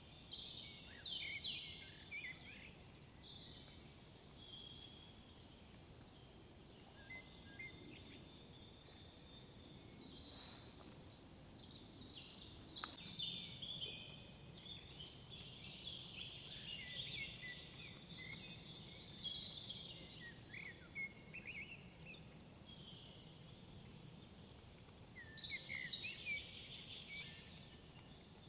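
Several songbirds singing in woodland, overlapping phrases of chirps and trills, with a high, quick trill that comes back several times, over a faint low background hum of the forest.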